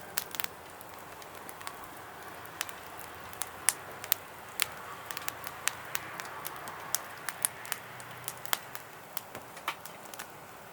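Wood fire crackling in a small fire stand: irregular sharp pops over a faint steady hiss.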